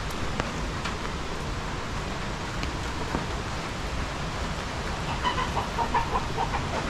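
Steady rain with scattered drop taps. About five seconds in, a chicken starts clucking in a quick run of short calls.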